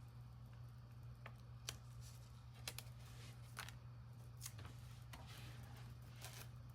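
Faint, scattered clicks and light scraping from small parts being handled by hand, over a steady low hum.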